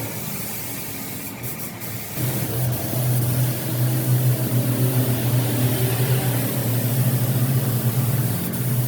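A machine running with a steady low hum over a constant spraying hiss; the hum grows louder about two seconds in.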